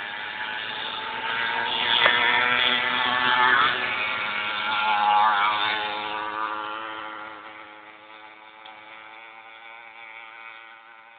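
Small motorbike engine ridden near and then away, its pitch rising and falling as the throttle is opened and eased; loudest a few seconds in, then fading as the bike moves off.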